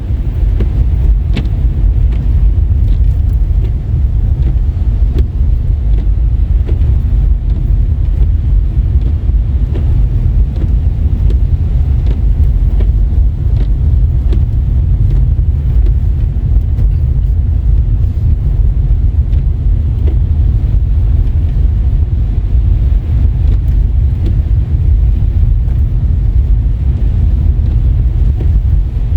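Steady low rumble of a car driving on a wet, snowy road, heard from inside the cabin, with a few faint scattered ticks.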